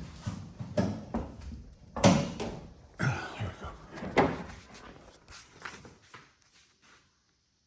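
A run of clunks and thuds from the car's body panels being handled, like a door or the hood being worked open and shut. The loudest knocks come about two and four seconds in, and the sound dies away about a second before the end.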